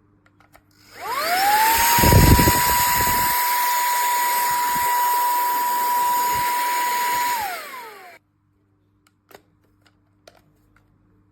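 Handheld cordless vacuum cleaner switched on: its small motor spins up with a rising whine and runs steadily with a high whine over a rushing hiss. There is a brief low rumble about two seconds in. After about six seconds it is switched off and winds down with a falling whine, followed by a few small clicks.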